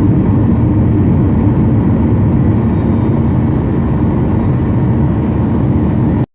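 Steady roar of a Boeing 737-800's CFM56 engines and airflow heard inside the passenger cabin, heaviest in the low end, cutting off abruptly near the end.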